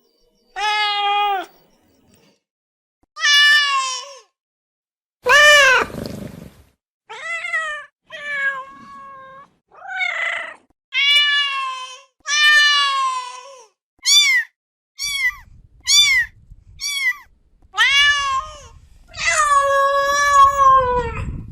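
Domestic cat meowing over and over, about fifteen separate meows of different lengths and pitches. A quick run of short, high meows comes in the middle, and a long drawn-out meow comes near the end.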